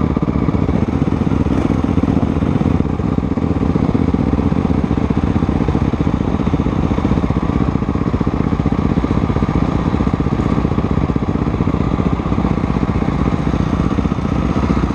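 Motocross motorcycle engine running steadily, with no clear revving up or down.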